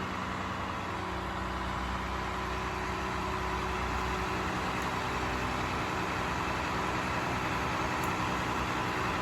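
Heavy diesel engine of a Cat 352 excavator piling rig running steadily at idle.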